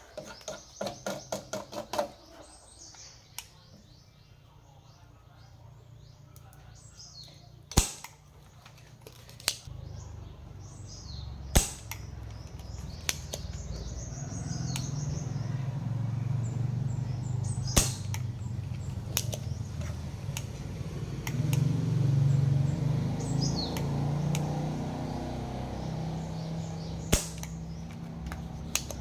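Scattered sharp clicks and knocks, starting with a quick run of about eight in the first two seconds, with birds chirping in the background. A low hum builds from about ten seconds in and is loudest a little past the middle.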